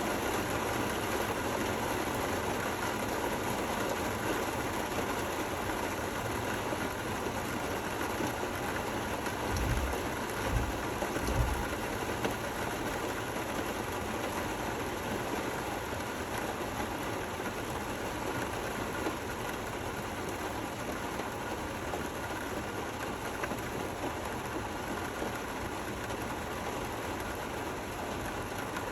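Steady rain falling, an even hiss with no let-up. A few low thumps come about ten seconds in.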